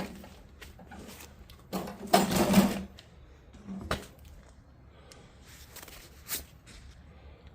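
Hands-on work at the snowblower's engine: scattered metal clicks and a rattling mechanical burst lasting about a second, starting about two seconds in. A shorter rattle follows a second later.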